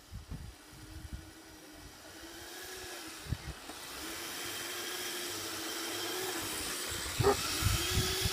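Kyosho Blizzard SR radio-controlled snow tractor's motor whining steadily with a hiss, growing gradually louder as it comes closer through deep powder snow. A few low thumps come near the end.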